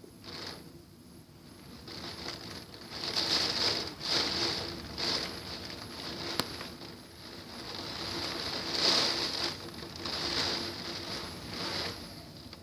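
Hurricane-force wind gusting, rising and falling in surges every second or two.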